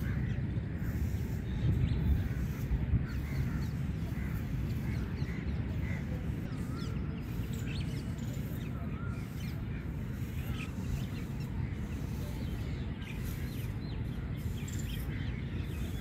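Birds calling with many short chirps over a steady low rumble.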